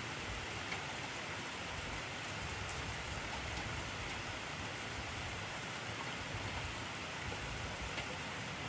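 Heavy rain falling steadily: a dense, even hiss of raindrops on surfaces.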